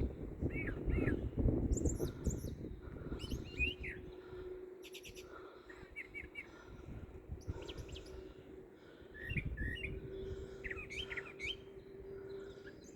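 A songbird singing short, quick phrases of rising and falling chirps, repeated every second or so. A low rumble sits under the song in the first few seconds and again about nine seconds in.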